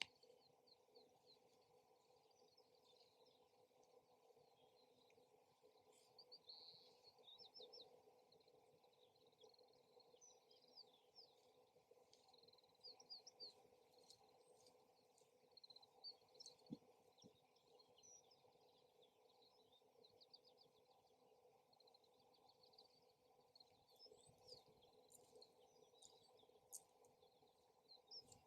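Faint wild birdsong: many rapid chirps and short trills over a steady low hum, with a few sharp ticks.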